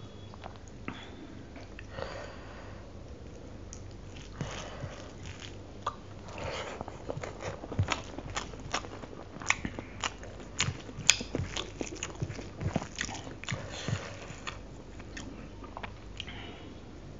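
Close-miked mouth sounds of eating chicken curry and rice: wet chewing and lip smacks, with a quick run of sharp clicks through the middle of the stretch.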